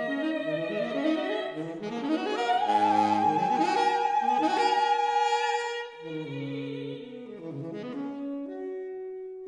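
Classical chamber music without voice: a saxophone holds a long high note over a moving lower accompaniment, loudest from about two to six seconds in, then softer.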